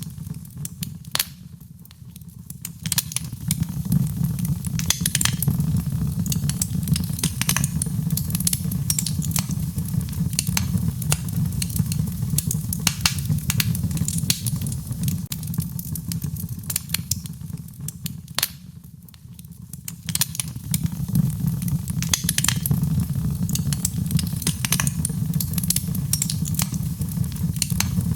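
Wood fire crackling and popping, with many sharp snaps over a steady low rush of rain. The crackling thins out briefly twice, about two seconds in and again about nineteen seconds in.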